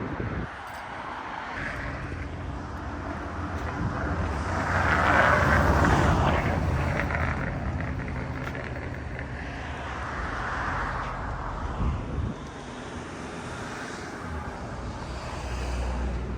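City street traffic: vehicles passing over a steady low engine hum, the loudest swelling up and fading away about five to six seconds in, another passing more softly around ten seconds.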